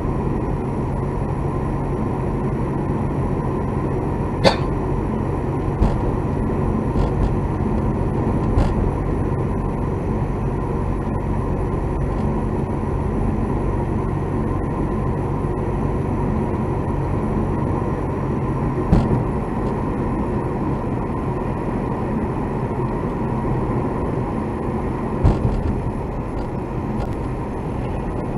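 Car cabin noise while driving, a steady low drone of engine and tyres, broken by a few short sharp clicks or knocks from inside the car, the abnormal noise the recording was made to catch.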